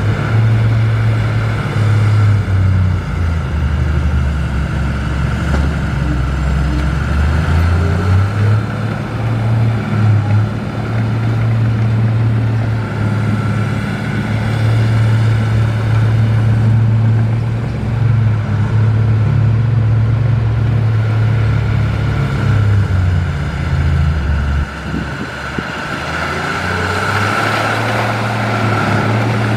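Komatsu D53P bulldozer's diesel engine running under load, a loud steady drone whose pitch shifts up and down as the machine works, with a constant higher whine over it.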